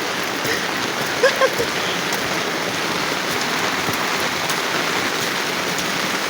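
Steady heavy rain falling and pattering on surfaces, an even dense hiss.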